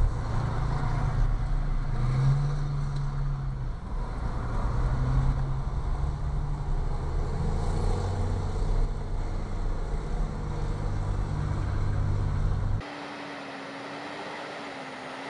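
Large road vehicle's engine running with a deep, steady drone. About 13 seconds in it cuts off abruptly to a much quieter sound with a faint wavering whine.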